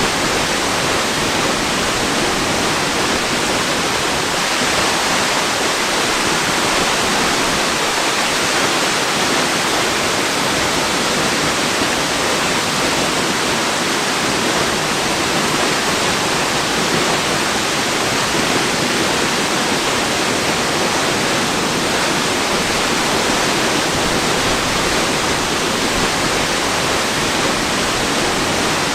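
Waterfall: a steady, unchanging rush of falling water, mostly hiss with little deep rumble.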